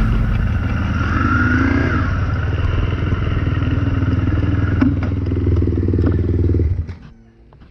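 Honda CRF250 dirt bike's single-cylinder four-stroke engine running steadily, then switched off about seven seconds in.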